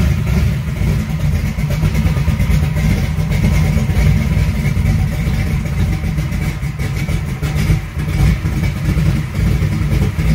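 1955 Chevy's engine running with a loud, low exhaust rumble as the car drives slowly across the driveway.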